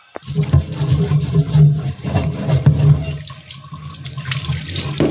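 Tap water running and splashing as a gas heater's blower fan is washed under it and scrubbed by hand to rub off caked dirt.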